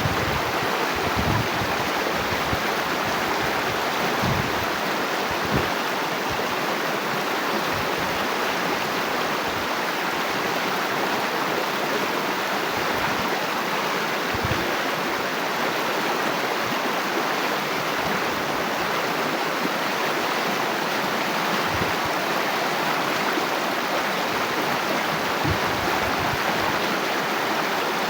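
Water flowing steadily in a continuous, even rush, with a few brief low thumps.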